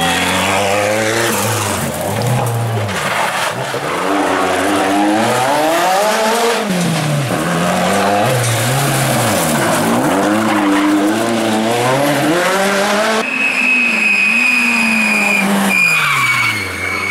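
Rally car engine at full throttle, revs climbing and dropping again and again as it shifts up and brakes for corners, over a hiss of tyre and road noise. About four seconds before the end a high, steady squeal takes over.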